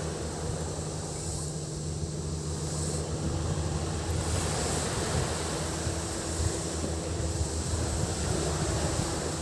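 Sea waves washing onto a beach, with a steady high-pitched cicada drone that grows louder about four seconds in.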